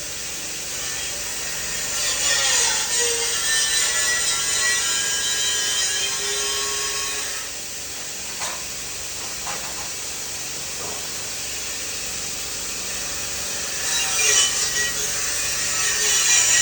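Power grinder working on metal: a continuous rasping noise with a whine that shifts in pitch. It eases off about halfway through and picks up again near the end.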